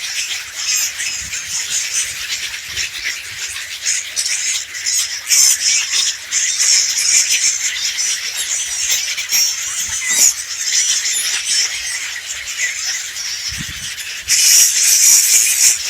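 Small birds chirping and squeaking continuously while feeding, a dense high-pitched twittering that gets louder near the end.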